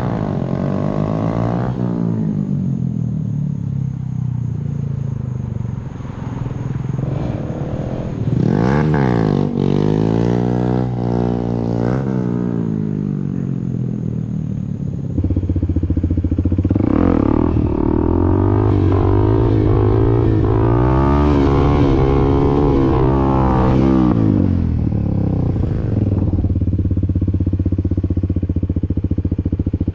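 Dirt bike engine revving up and down, its pitch rising and falling again and again with the throttle. It gets louder and steadier from about halfway through.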